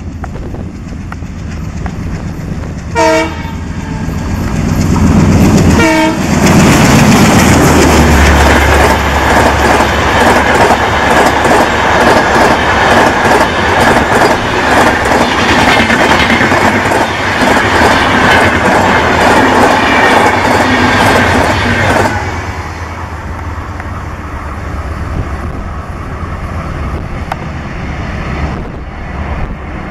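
Diesel locomotive of a passenger train sounding two short horn blasts, then passing close with its engine rumbling and the coaches' wheels clattering over rail joints. About 22 seconds in the sound drops suddenly to a quieter rumble of a train moving away.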